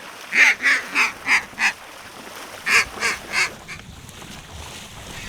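Loud mallard-style duck quacks: a run of five short quacks, a pause of about a second, then four more.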